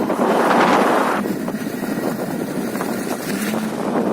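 Motorcycle running along on the move, with wind buffeting the microphone; a louder rush of wind in the first second.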